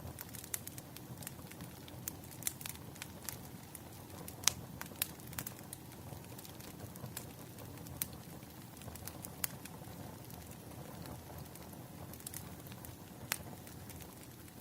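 Wood fire crackling: irregular sharp pops and snaps over a low steady rumble, the loudest pop about four and a half seconds in.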